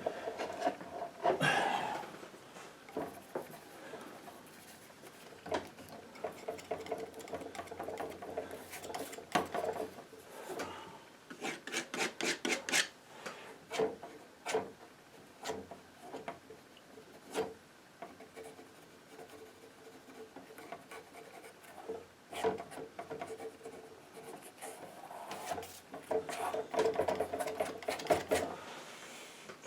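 Painting knife scraping and dabbing paint across a board and palette in irregular strokes, with frequent sharp clicks of the blade against the surface.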